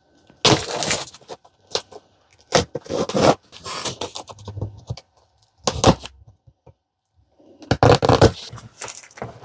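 Cardboard box and packaging of a ride-on toy car being opened and handled: a series of short, irregular scrapes and rustles with brief pauses between them.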